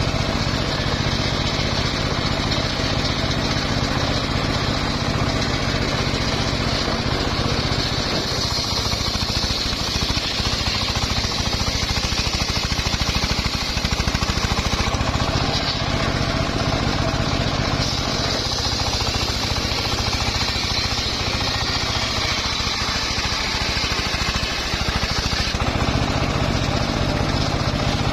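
Homemade engine-driven circular sawmill running steadily while its blade saws a mahogany log. A high-pitched whine from the cut fades about eight seconds in and comes back from about eighteen to twenty-five seconds in.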